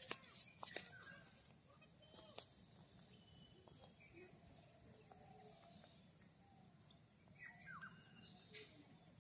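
Near silence with faint bird chirps: runs of short, high repeated notes and a small falling call near the end, with a few soft clicks in the first second.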